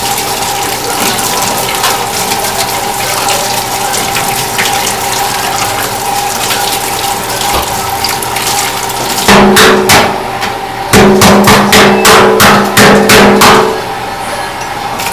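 Tap water running steadily with a faint hum. About nine seconds in, a run of loud, rapid scrubbing strokes starts, about four a second, with a low buzzing rasp, as seafood is brushed clean.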